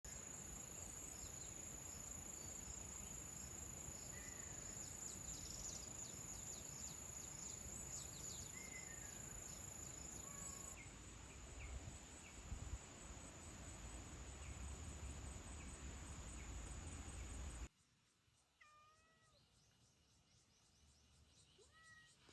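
Outdoor ambience with a steady high-pitched insect drone and scattered short bird chirps; it cuts off suddenly about two-thirds in, and in the quiet that follows a cat meows softly twice.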